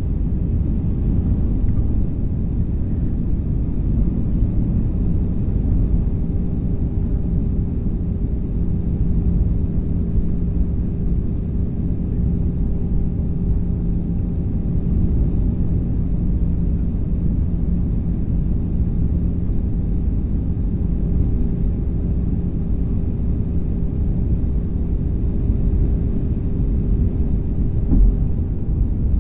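Passenger airplane cabin noise in flight: a steady low rumble of engines and airflow, with a faint steady hum.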